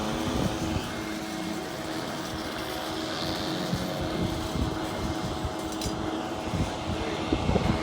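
A steady mechanical hum holding several constant tones, over an irregular low rumble.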